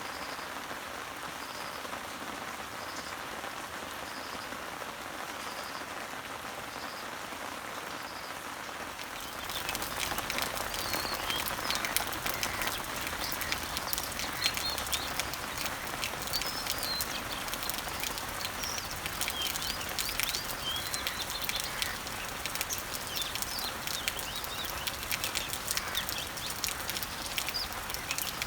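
Summer rain falling on leaves and trees, a steady patter, with a bird repeating a short high note about once a second. About nine seconds in, the rain gets louder with many distinct drips, and several birds chirp through it.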